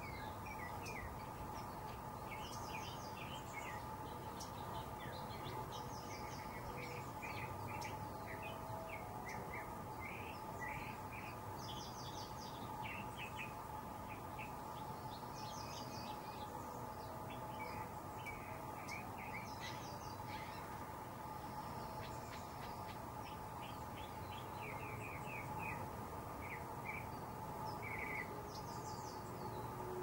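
Small songbirds chirping over and over, with short higher trills every few seconds, over a steady hum and a low background rumble.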